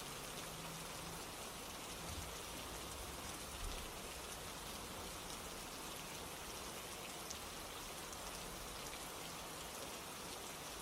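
Steady rain falling, an even patter of drops on a surface, with a soft low thump about two seconds in and another near four seconds.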